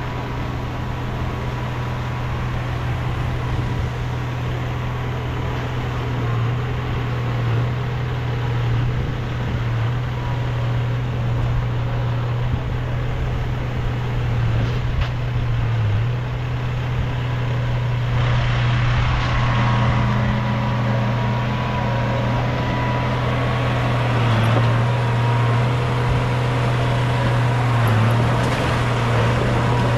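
Heavy diesel engine of earthmoving machinery running steadily under work, with a constant low drone. From about eighteen seconds in, more high-pitched clatter and noise is added to the drone.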